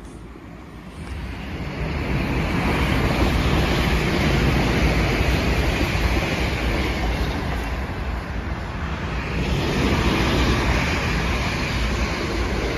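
Long South Western Railway electric express passing through the station at speed: a steady rush and rumble of wheels on rail that builds about two seconds in and stays loud, swelling again a little later.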